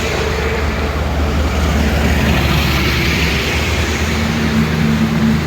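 Engine of a 12-wheel tanker truck running steadily as it passes slowly up a slope, under a constant wash of highway traffic noise.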